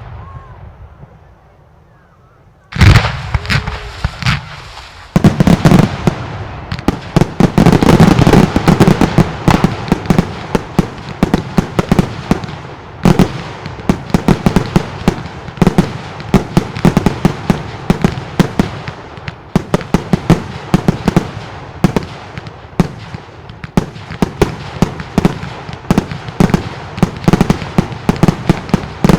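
Mascletà fireworks: salutes and truenos going off. One loud bang comes about three seconds in, and from about five seconds a dense, rhythmic barrage of rapid bangs follows without a break.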